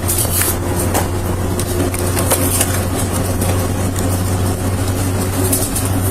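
A motor vehicle's engine running steadily with a constant low hum, with a few light clicks.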